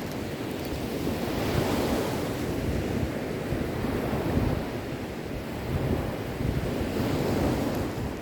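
Sea waves breaking and washing in, swelling and easing three times, over a low rumble.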